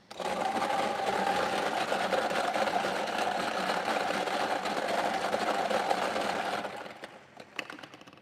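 Electric lottery draw machine running steadily for about seven seconds, mixing the numbered balls to draw the next digit, then winding down, with a few sharp clicks near the end.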